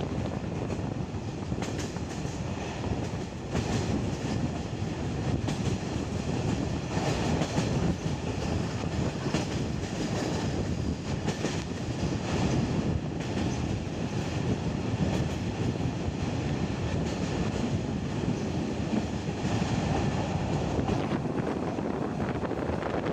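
Passenger train carriage running along the track, heard at an open window: a steady rumble of wheels on rails mixed with rushing air, with occasional clicks as the wheels cross rail joints.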